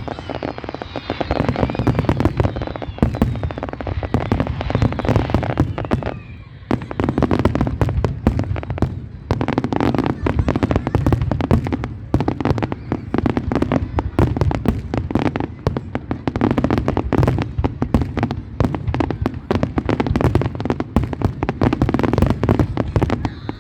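Fireworks display going off in rapid succession: a dense, continuous run of bangs and crackles, easing off briefly about six and nine seconds in.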